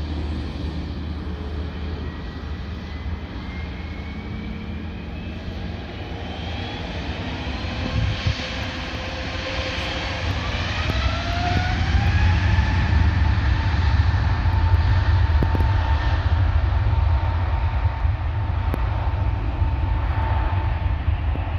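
Airliner's engines running, their whine rising in pitch over several seconds and then holding steady over a deep rumble, growing louder toward the middle.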